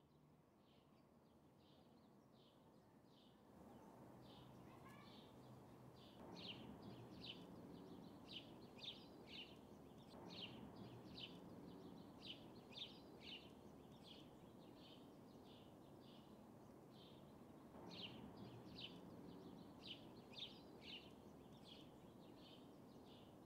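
Faint bird chirping: short high chirps repeated irregularly, a few a second, over a low hiss of background noise that fades in at the start.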